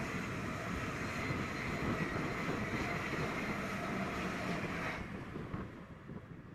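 Rushing noise of a passing train, steady and then cutting off about five seconds in.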